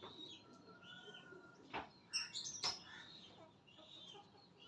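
Birds chirping faintly: a steady run of short, arching high chirps, about two a second, with a brief burst of sharper, louder calls about two seconds in.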